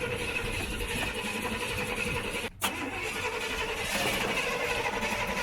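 The 1941 Chevy truck's engine being cranked over by the starter without catching, with a brief break about two and a half seconds in before cranking resumes. The engine is not firing, which is why starter fluid is tried next.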